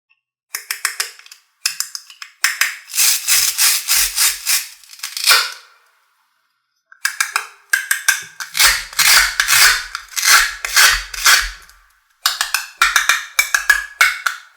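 Fast rattling clicks in five bursts separated by short pauses, the longest bursts in the middle, with a faint low rumble under two of them.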